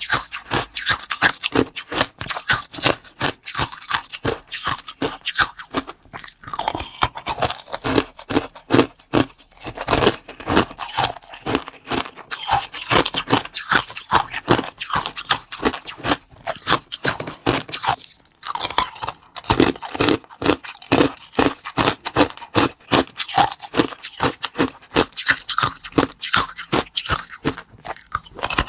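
Close-miked eating: something crisp being bitten and chewed, with dense, irregular crunching.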